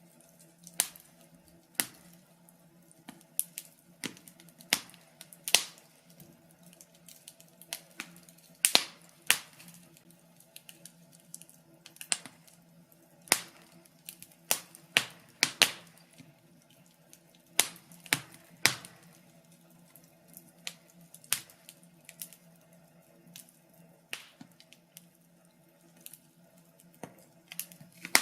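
Wood fire crackling: sharp, irregular pops and snaps of varying loudness, some in quick clusters, over a faint steady low hum.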